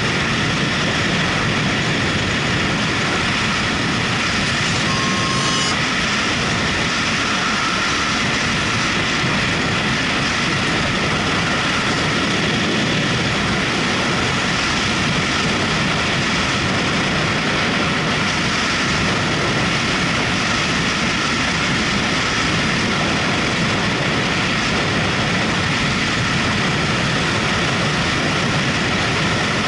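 Motorcycle on the move, its engine running steadily under heavy wind rush on the microphone. A brief high tone sounds about five seconds in.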